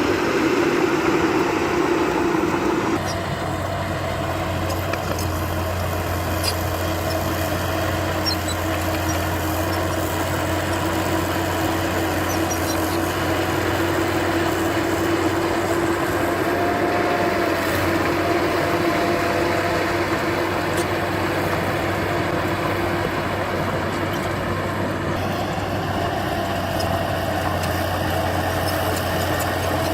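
Heavy diesel engine of earthmoving machinery running steadily at a constant speed, with a slight change in its tone about three seconds in and again near the end.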